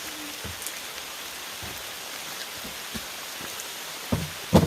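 Steady pouring rain, with a few dull knocks and two louder thumps near the end, like gear being handled.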